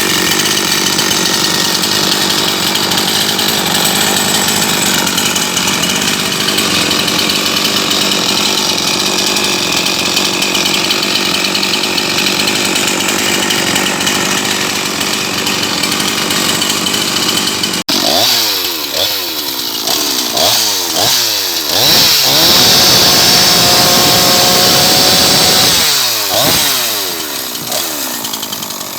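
Husqvarna 353 two-stroke chainsaw running at high speed. After an abrupt cut about two-thirds of the way in, it is revved up and down several times, held at high revs for a few seconds, then revved up and down again.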